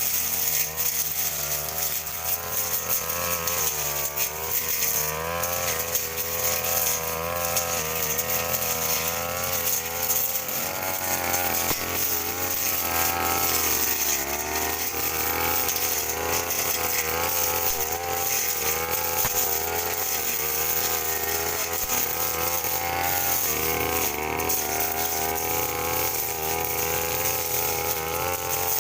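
Brush cutter engine running at high revs, its pitch wavering and dipping briefly a couple of times as it takes load.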